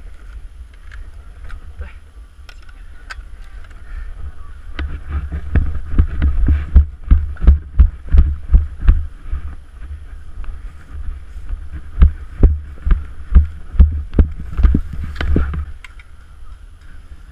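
Thumps of running footsteps jolting a GoPro camera, about two a second, over a low wind rumble on the microphone; the thumps get louder about five seconds in and ease off near the end.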